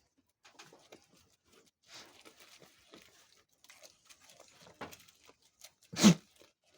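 Goats feeding in their pen: scattered rustling and crunching of dry fodder as they pull at and chew it. A single brief, loud sound breaks in about six seconds in.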